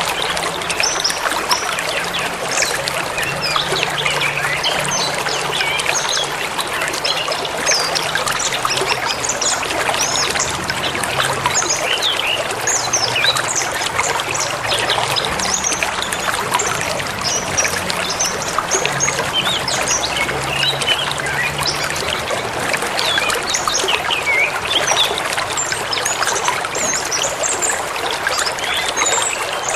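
Forest river flowing steadily, with many small birds chirping and twittering over the rush of water throughout.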